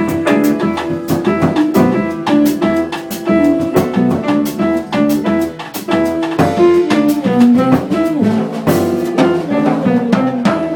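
Latin jazz band playing an instrumental passage in a changüí arrangement: drum kit and double bass keeping a steady rhythm under a melodic solo line.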